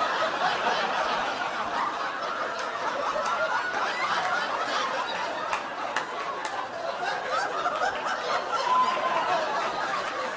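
Large theatre audience laughing together in a long, sustained wave after a stand-up punchline.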